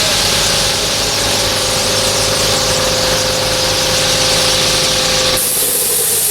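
A steady engine-like hum with several held tones under a broad hiss; about five seconds in, the low hum drops away and a higher hiss takes over.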